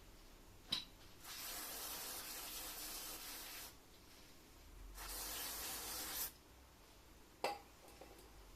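Two long hissing sprays of pressurized gas or liquid, the first about two and a half seconds and the second about one and a half. A sharp click comes shortly before the first and another shortly after the second.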